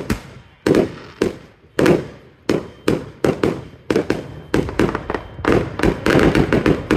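Aerial fireworks bursting in quick succession: sharp bangs, two or three a second, each with a short echoing tail, crowding into a dense run near the end.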